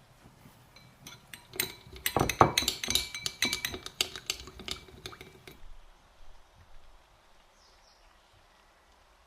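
Dishes and cutlery clinking together: a quick run of light, ringing knocks for about four seconds that then stops.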